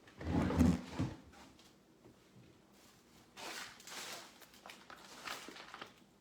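Handling noise on a tabletop: a dull thump about half a second in, then a few seconds of rustling and light knocks, like card boxes and packs being moved around.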